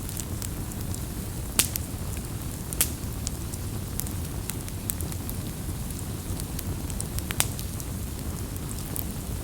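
A wood campfire burning, with a steady low rumble and hiss and scattered sharp crackles and pops of burning wood, three of them louder than the rest.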